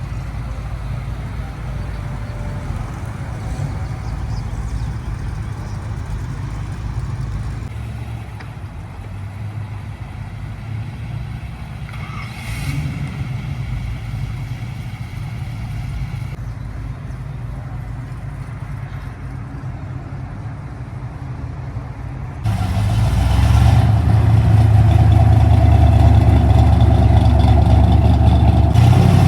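Car engines running steadily at low revs. About three-quarters of the way through, a much louder engine sound begins abruptly.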